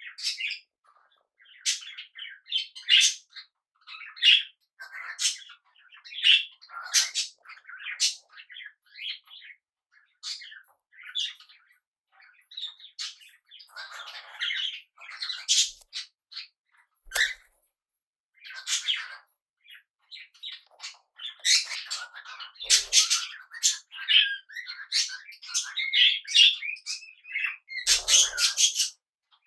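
Small pet parrots chattering: a steady stream of quick chirps and warbles with harsher squawks mixed in, the loudest squawks near the end.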